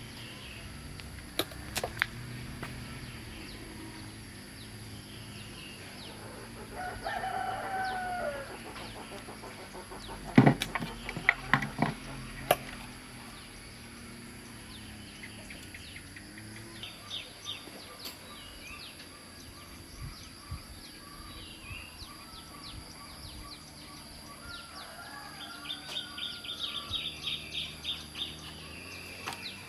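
A rooster crows once, a pitched call of about a second and a half with a falling end, about seven seconds in. Several sharp clicks or knocks follow and are the loudest sounds. Rapid high bird chirps come near the end.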